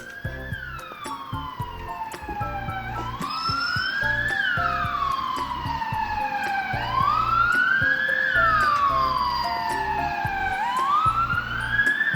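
Police-car siren wailing, its pitch rising quickly and falling slowly in cycles about every four seconds, over background music with a steady beat.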